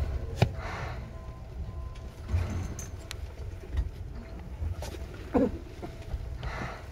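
Seibu 2000 series electric train running and braking into a station, heard inside the car above its line breaker: a low rumble with a sharp click about half a second in, a few lighter knocks, and a brief squeal about five seconds in.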